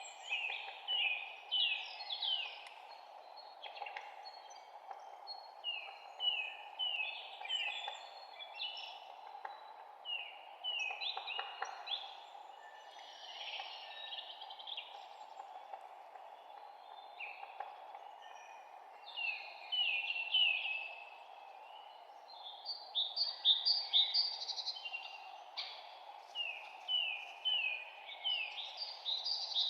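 Songbirds singing in a spring forest: runs of quick, downward-sweeping chirps in phrases, busier and louder in the last few seconds, over a steady background hiss.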